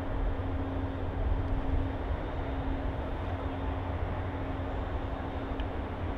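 Mugunghwa passenger train running, a steady low rumble with a steady hum over it.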